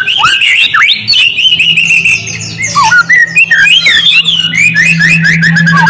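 White-rumped shama singing a fast, unbroken run of varied whistles, chirps and quick rising and falling sweeps.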